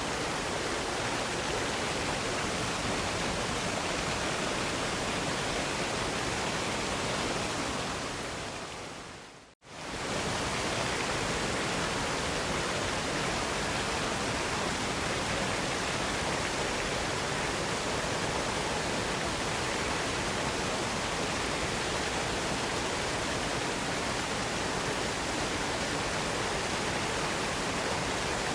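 Waterfall, a steady rush of falling water. About seven seconds in it fades down to a brief full silence and then swells straight back to the same steady rush.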